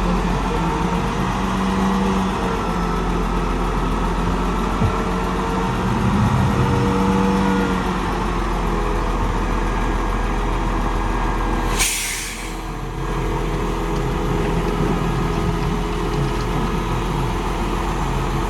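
Heavy diesel engines of a bulldozer and dump trucks running steadily. About twelve seconds in there is a short, sharp hiss of air, typical of a truck's air brakes.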